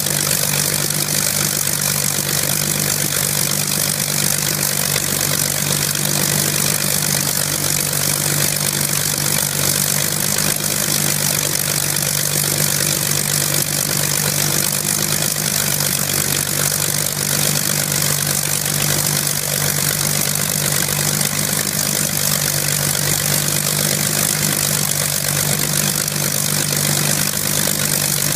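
Hispano HA-1112 Buchon's Rolls-Royce Merlin V12 engine idling steadily on its first run in 45 years.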